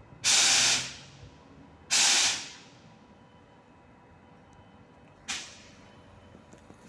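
Compressed air venting from a train's pneumatic system, in three sharp hisses: two of about half a second each, then a shorter one about three seconds later.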